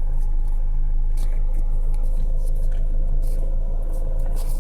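Steady low rumble inside a car cabin: air from the dash A/C vents blowing on the microphone, with a faint steady hum and a few small ticks.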